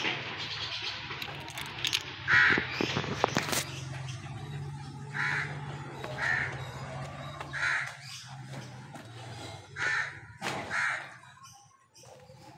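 A bird calling repeatedly: about six short calls, one to two seconds apart, over a low steady hum. A few sharp knocks come about two to three and a half seconds in.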